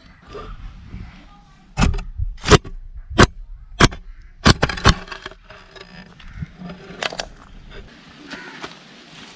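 A digging tool striking into clay soil in a run of heavy strokes, about five in a row roughly two-thirds of a second apart. Lighter knocks and scraping follow.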